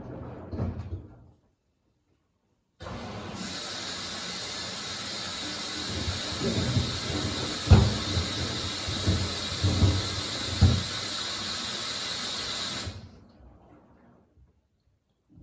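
Samsung WD70T4047CE washer-dryer taking in water with a steady hiss, which starts suddenly about three seconds in and fades out near the end. A few dull low thumps, the loudest in the middle, come from the sneakers tumbling in the drum.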